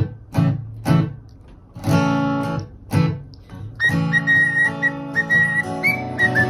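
Acoustic guitar strummed about twice a second, then about four seconds in sustained chords with a high whistled tune over them, a parrot whistling along with the music.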